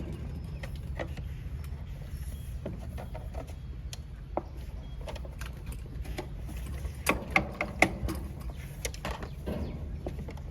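Scattered sharp clicks and knocks, with a cluster of louder strikes about seven to eight seconds in, over a steady low rumble.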